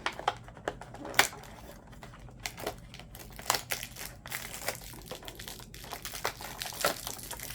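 A small cardboard advent-calendar box and its packaging being opened and handled: irregular crinkling with scattered sharp clicks.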